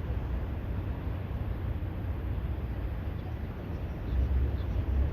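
Outdoor harbour ambience: a steady deep rumble under a light hiss, which grows louder about four seconds in.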